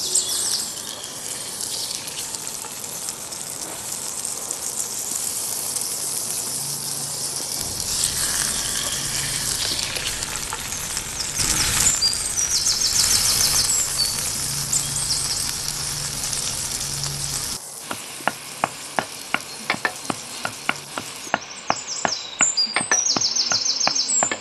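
Oil sizzling in an iron wok over a wood fire as chopped meat is added and stirred. About two-thirds of the way through, the sizzling gives way to a pestle pounding in a small mortar, in even knocks about three a second.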